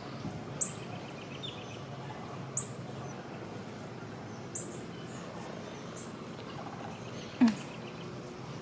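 A bird repeating a short, high, falling chirp about every two seconds, over a faint steady low hum. About seven and a half seconds in comes a single brief, louder sound that drops sharply in pitch.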